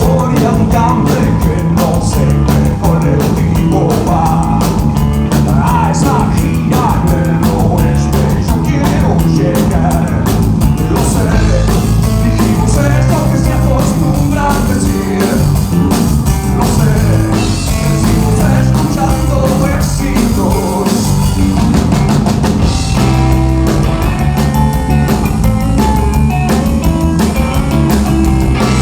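A rock band playing live: drum kit, guitars and bass, with a singing voice.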